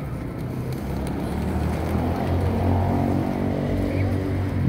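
A motor vehicle's engine running, growing gradually louder, over a low rumble of street noise.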